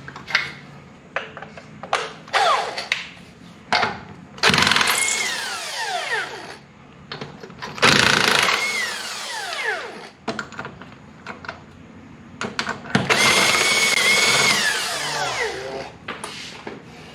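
A handheld power tool runs in a few short bursts, then three longer runs. Each run ends in a falling whine as the motor winds down.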